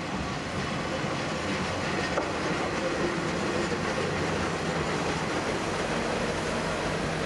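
Kanto Railway KiHa 532 diesel railcar pulling into a station, its engine and wheels running on the rails as it comes close, with a few faint clicks from the wheels. The sound grows a little louder in the first second and then holds steady.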